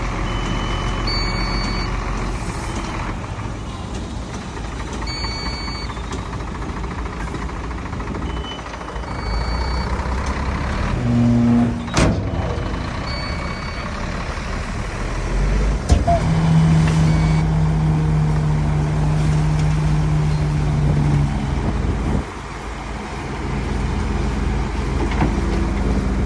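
Heavy diesel earth-moving machinery (dump trucks and a bulldozer) running, with short high beeps every few seconds. There is a sharp crack about twelve seconds in, and a steady low tone lasts about five seconds in the second half.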